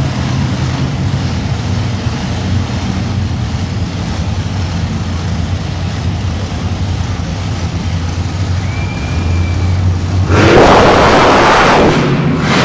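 Monster truck engine running with a steady low drone, building a little toward the end. About ten seconds in, a loud rushing burst of noise lasting under two seconds covers it.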